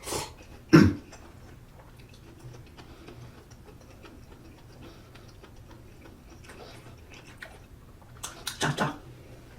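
Eating sounds: utensils knocking sharply against the dish twice near the start and in a quick cluster near the end, with little between.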